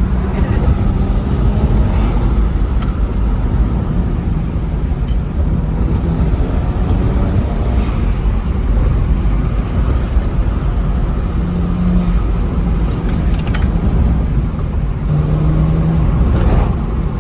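BMW 335i's N54 twin-turbo straight-six, fitted with VRSF downpipes, running while the car is driven. Its engine note holds steady for stretches and shifts in pitch as the revs change.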